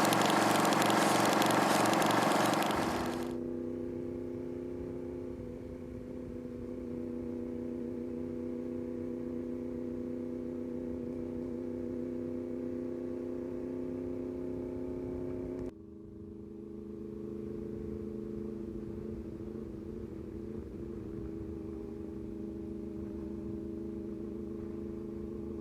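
Vehicle engine running: loud for the first few seconds, then settling to a steady pitched hum, which shifts abruptly about 16 seconds in and carries on steady.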